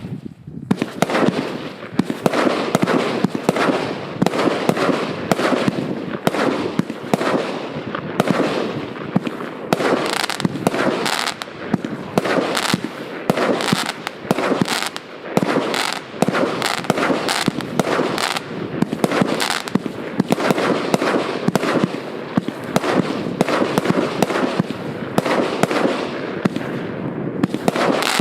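A 100-shot, 1-inch-calibre firework cake firing in rapid succession: a continuous stream of shells launching and bursting, many a second.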